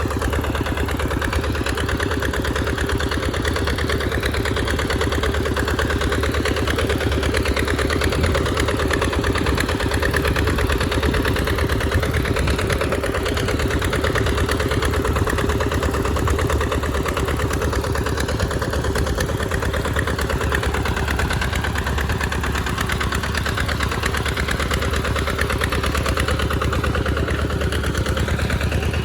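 Tractor engine running steadily at an even speed, with no change in pitch or loudness.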